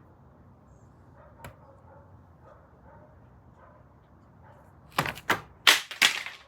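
Handling noise: a faint click about a second and a half in, then a quick run of four or five loud, sharp rustling clatters near the end.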